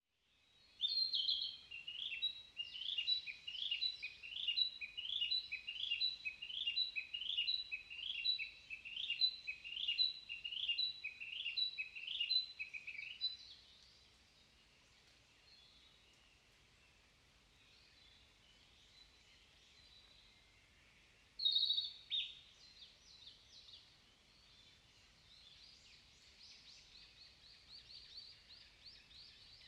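Narcissus flycatcher singing: one short phrase repeated over and over for about the first twelve seconds, then fainter bird notes, another loud burst of song at about 21 seconds, and a quiet rapid run of notes near the end.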